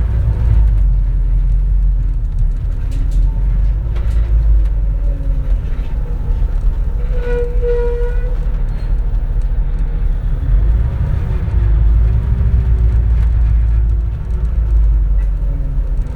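Inside a 2004 compressed-natural-gas city bus on the move: a steady low engine and road rumble, with the engine note falling and rising as the bus eases off and accelerates. A brief high whine sounds about halfway through.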